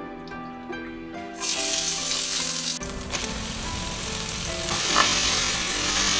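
Stir-fry sizzling in hot oil in a pan, starting suddenly about a second and a half in and carrying on as a loud, steady hiss over background music.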